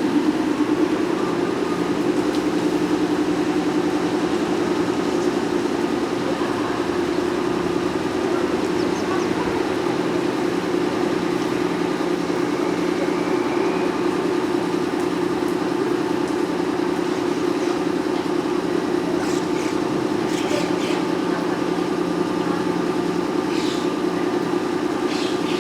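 Steady, loud hum of an electric train at a station, holding several fixed tones throughout, with a few faint clicks near the end.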